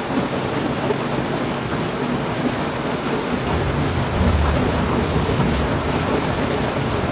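Heavy rain falling steadily with an even hiss. A low rumble comes in about halfway through and fades again near the end.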